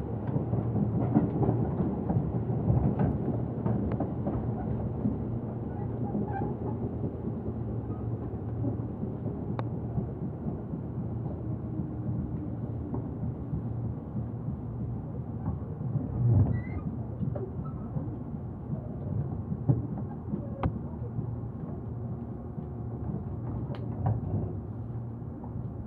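Inside a Tobu Urban Park Line electric commuter train car: the steady low rumble of the train under way on the rails, with a few sharp clicks and knocks.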